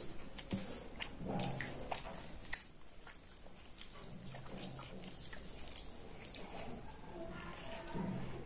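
Close-up chewing and eating by hand: wet mouth smacks and small clicks as rice and chicken curry are chewed, with fingers squishing the rice, and one sharp click about two and a half seconds in.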